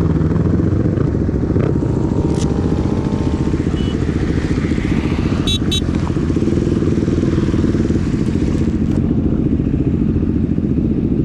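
Yamaha YZF-R6 inline-four with a full aftermarket exhaust system, running steadily at an even, low engine speed. Two brief sharp clicks come about halfway through.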